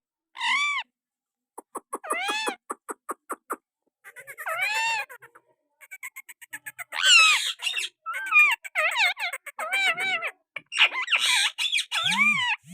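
Pet parrot mimicking quail calls. Separate arched, whistle-like calls alternate with a quick run of clicks, about six a second, and after the middle the calls come thick and fast as chattering squawks.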